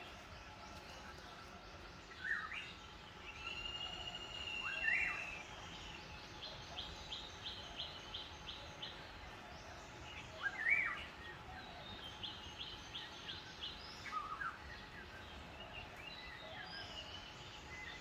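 Wild birds calling in the forest canopy: a held whistled note, quick runs of repeated high notes, and sharp rising chirps. The chirps are loudest about five and eleven seconds in.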